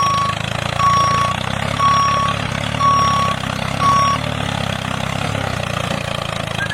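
Vehicle engine running steadily while a reversing alarm beeps about once a second; the beeping stops about four seconds in and the engine runs on.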